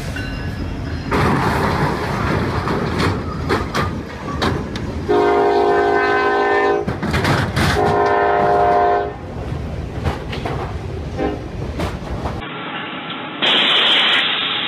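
Freight train rumbling and clattering through a grade crossing after striking a semi-trailer, with two long locomotive horn blasts in the middle. Near the end this gives way to a duller, muffled rumble.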